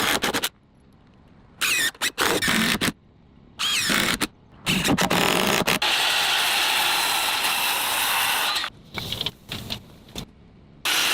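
Handheld power tool motor running in three short bursts, its pitch rising and falling, then a steady run of about three seconds, and another run near the end.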